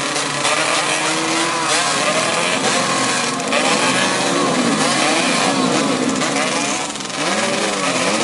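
Several motocross bikes racing, their engines revving up and down in overlapping rising and falling whines.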